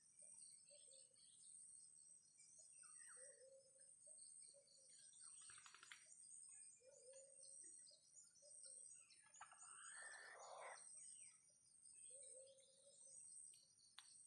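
Faint bird calls, with short low notes that repeat in pairs every couple of seconds, over a steady high-pitched insect whine.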